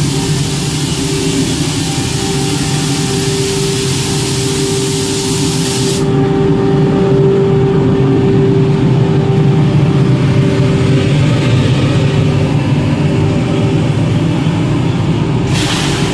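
WAG-12 electric locomotive's machinery running steadily, a constant hum with a held high tone. A high hiss over it stops suddenly about six seconds in and returns briefly near the end.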